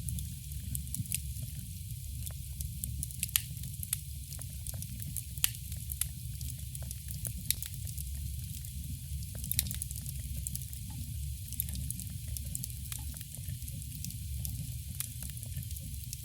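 Campfire burning: a steady low rumble of flames under frequent, irregular sharp crackles and pops of burning wood.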